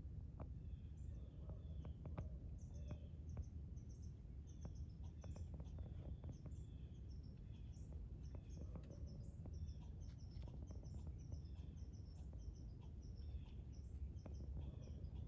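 Small birds chirping over and over in short high calls, over a low steady rumble of outdoor background noise, with scattered faint clicks and rustles.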